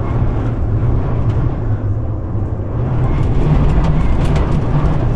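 Strong wind buffeting an electric-tricycle camper, heard from inside: a steady low rumble with scattered rattling ticks, growing a little stronger about three seconds in.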